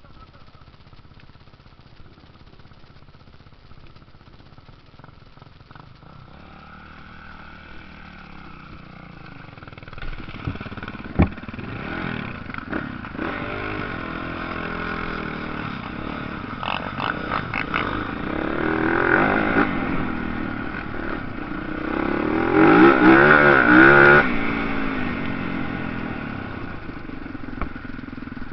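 Motocross motorcycle engines revving as the bikes race past, the sound rising and falling in pitch with throttle and growing louder until the loudest pass a little past the two-thirds mark, then fading. A single sharp click sounds about a third of the way in.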